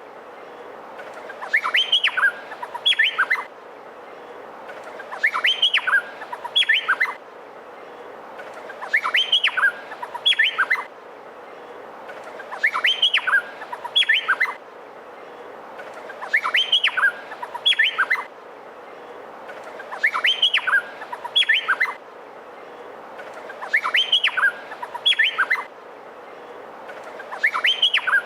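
Male Meliphaga honeyeater (cucak pantai) singing. It gives the same short phrase of sharp, rising whistled notes over and over, about every four seconds, over a steady background hiss.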